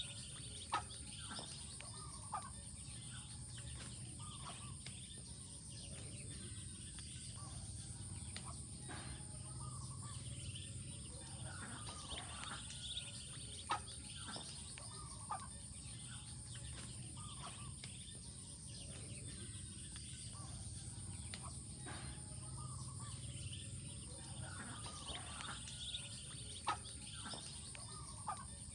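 Ducklings peeping: many short, high calls scattered throughout, with a few sharp clicks and a steady low hum underneath.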